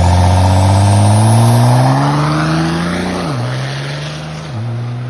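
Diesel pickup truck accelerating hard, its engine note climbing steadily and then dropping sharply at two upshifts, getting fainter as it pulls away. A thin high whine rises in pitch over the first couple of seconds.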